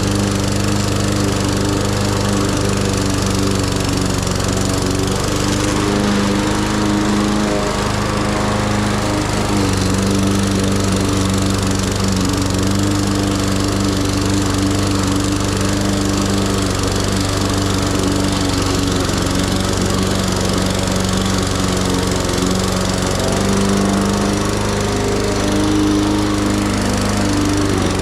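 Petrol lawn mower engine running steadily while cutting grass, its note shifting slightly up and down as it works.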